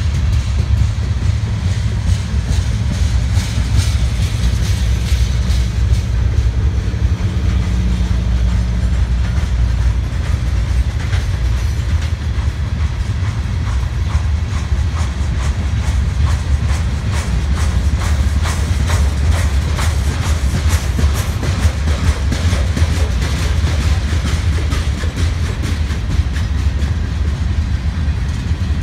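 Freight cars of a long mixed freight train rolling past close by: a steady heavy rumble of steel wheels on rail with continuous rapid clicking as the wheels pass over the rail joints.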